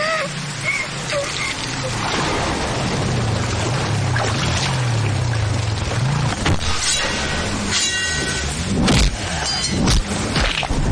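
Film action soundtrack: heavy rain with a dramatic background score, and two loud impact hits near the end.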